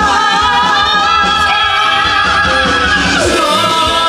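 A musical-theatre song sung live over band accompaniment. A voice holds a long note with vibrato, then moves to a new note about three seconds in.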